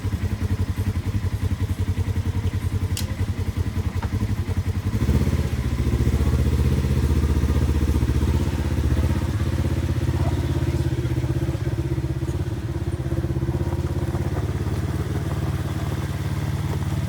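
Polaris RZR XP Turbo side-by-side's engine running as it drives along the street, growing louder about five seconds in as it picks up speed.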